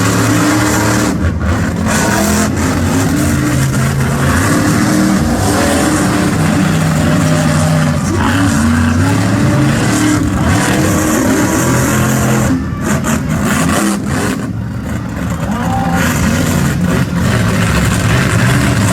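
Monster truck engines revving hard during a side-by-side race, the pitch rising and falling with the throttle; it drops off for a few seconds a little past the middle.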